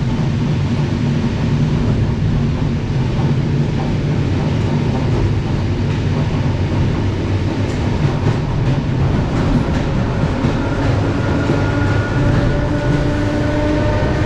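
Passenger train running along the track, heard from inside the carriage: a steady low rumble of the wheels on the rails. From about eleven seconds in, a faint whine joins and rises slowly in pitch.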